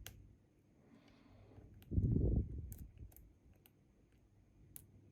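Faint, scattered light clicks of lock-picking tools working in a Bi-Lock cam lock, with a louder, low, muffled handling sound about two seconds in.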